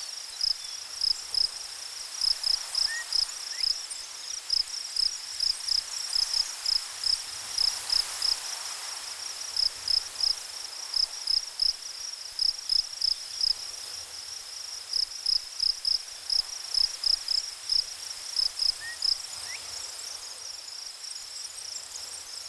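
An insect chirping in a steady series of short, high-pitched pulses, several a second in runs with brief pauses, over a faint steady hiss.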